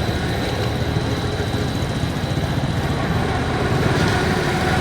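Motorcycle engine running steadily, a dense low rumble of rapid firing pulses.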